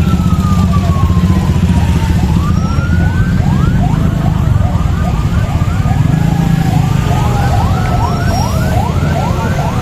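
Electronic siren sounding, first a slow falling wail and then a fast repeating yelp of quick rising sweeps, over a loud low rumble.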